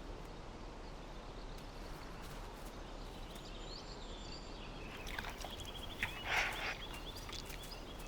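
Faint steady outdoor wildlife ambience with a few thin, high bird calls, and a short louder rustle with chirps about six seconds in.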